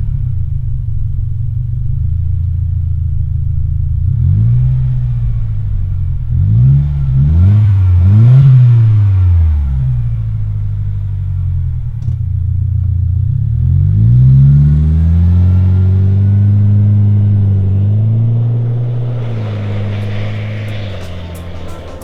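Subaru Outback XT's turbocharged 2.4-litre flat-four running through an MBRP dual rear-exit axle-back exhaust: idling, then several quick throttle blips, then a slower rev held up for several seconds before it drops back and fades near the end.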